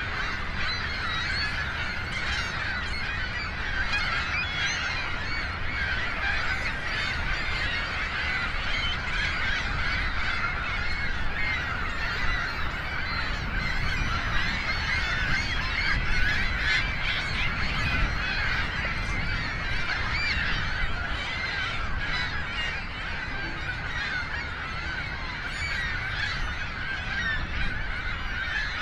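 A dense chorus of seabirds calling, many overlapping calls at once without a break, over a steady low rumble.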